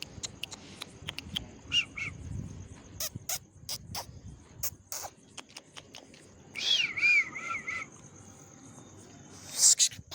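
Scattered clicks and rustles over a faint steady high tone, with a short chirp early and a wavering animal call lasting about a second about two-thirds of the way through; a loud rustling burst comes near the end.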